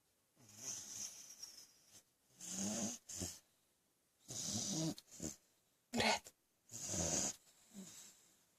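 A sleeping dog snoring: about five rasping snores roughly every two seconds, one shorter and sharper about six seconds in.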